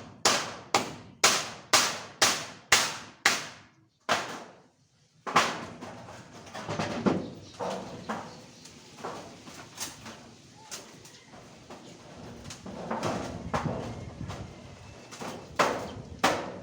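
Rapid, regular hammer blows, about three a second, stopping after about three and a half seconds; after a short lull come softer, irregular knocks and clatter, with a couple of sharper blows near the end.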